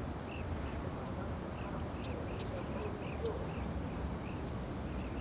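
Birds calling in the background, many short high chirps several times a second, over a steady low rumble.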